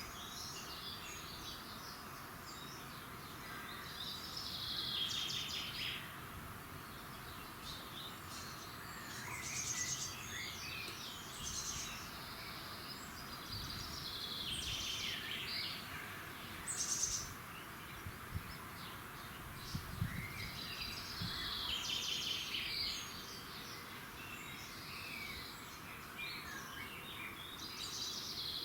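Several songbirds singing at dawn, with overlapping chirps and trills from more than one bird, over a steady background hum of outdoor noise. There is a soft low thump about twenty seconds in.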